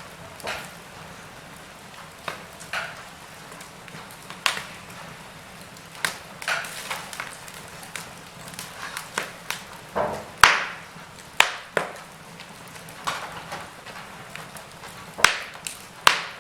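Wood fire in a fireplace crackling: irregular sharp pops, roughly one or two a second, over a low steady hiss, the loudest pop about ten seconds in.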